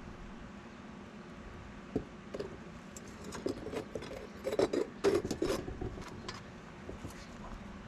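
Scrap copper and metal tongs clinking and knocking against a crucible as pieces are laid back in: one sharp knock about two seconds in, then a run of clinks and clanks in the middle.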